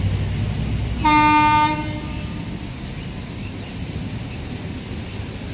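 Train horn giving one short blast about a second in. Before it a low rumble of the train fades out, and a steady running noise follows.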